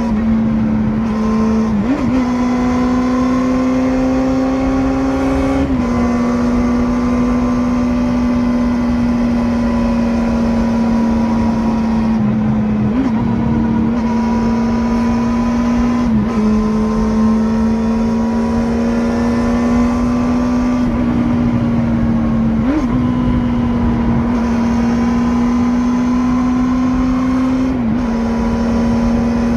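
The water-cooled 250 cc inline-four of a first-generation Kawasaki Balius runs steadily at high revs. Its pitch holds nearly level, with a short jump or dip every few seconds.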